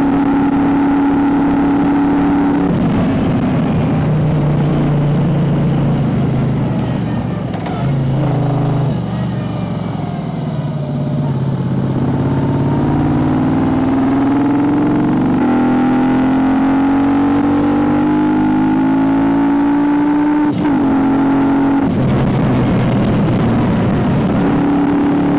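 Moto Guzzi V35's air-cooled V-twin running under way. The revs drop a few seconds in, then climb steadily through the middle, with a brief break about twenty seconds in, typical of a gear change, before holding steady again.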